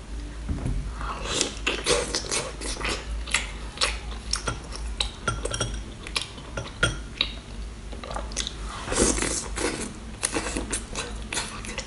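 Close-up mukbang eating sounds: a woman chewing seafood dipped in chili oil, with a run of wet, clicky smacks and bites and a metal spoon clinking against a glass bowl.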